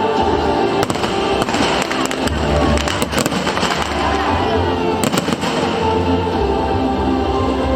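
Fireworks going off in a show: scattered sharp bangs and crackles at irregular intervals, loudest around a second, three seconds and five seconds in, over continuous loud music.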